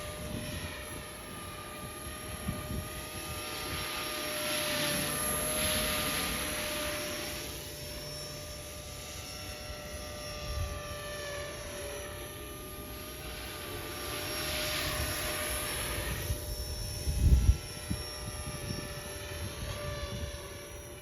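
Trex 450 electric RC helicopter in a scale EC145 body flying, its motor and gears giving a steady whine under the rotor's rushing hiss, which grows louder twice as the helicopter comes nearer. Wind buffets the microphone in low thumps, loudest about three-quarters of the way through.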